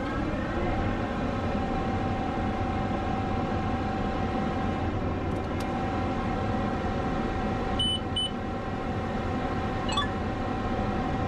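Case IH tractor engine running steadily while pulling the corn planter, an even drone with a steady hum. Two short electronic beeps sound close together about eight seconds in.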